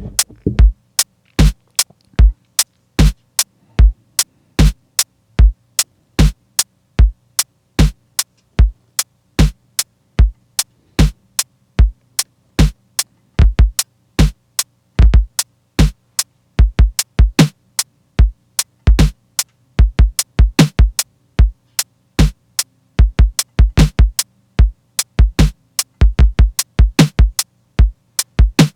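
Programmed electronic drum machine beat of sharp kick-and-snare hits, about one every 0.8 s, over a faint low synth tone. The pattern gets busier about halfway through and busier again later.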